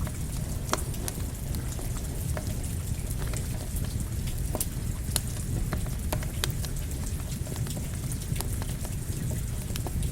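Campfire crackling with rain: a steady low rumble and hiss, broken by irregular sharp crackles and pops from the burning wood.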